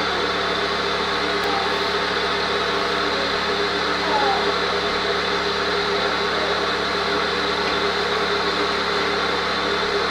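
Table saw running steadily, its motor and blade giving a constant whine with no change in load.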